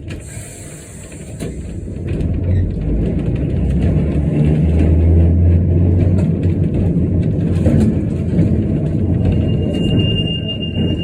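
Christchurch heritage electric tram getting under way and running on its rails: a low mechanical rumble with a steady low hum that builds about two seconds in, with a thin high steady tone near the end.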